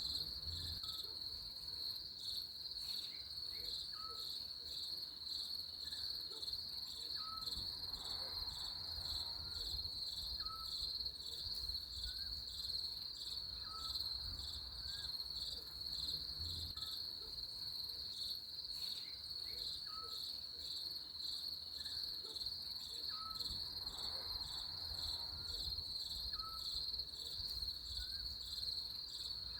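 Crickets chirping in a steady, high, rapidly pulsing chorus. A fainter short chirp repeats about once a second beneath it.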